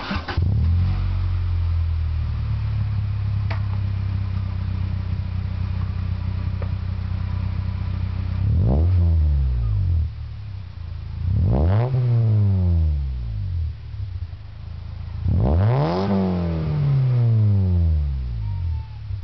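Honda Civic del Sol four-cylinder engine through a Tanabe Super Medallion aftermarket exhaust, firing up, idling steadily, then revved three times, each rev rising and falling in pitch, the last one held longest.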